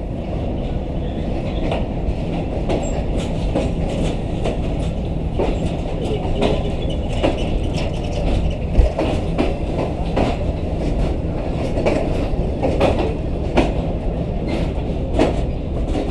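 Green Line Express passenger train running along the track: a steady low rumble with irregular clicks and clacks of the wheels over the rails.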